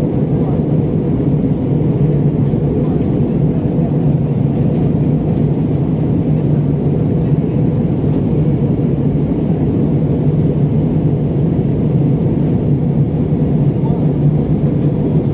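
Steady cabin drone inside an Airbus A320 on approach to landing: jet engines and rushing airflow, with a low, even hum underneath that does not change.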